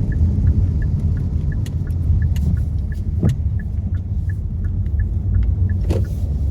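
Steady low rumble of a car driving on wet road, heard from inside the cabin. A faint, even ticking runs through it about three times a second, and there are two brief sharper knocks, about three seconds in and near the end.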